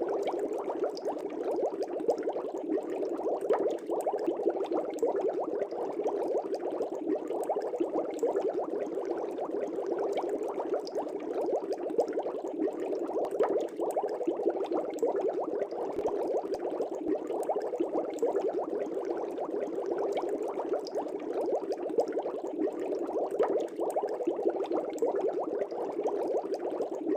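Fish tank air bubbles rising and breaking at the water surface in a steady, dense bubbling with a constant fine patter of small pops.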